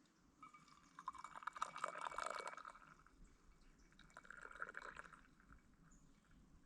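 Liquid being poured in two short pours, the second about two seconds after the first.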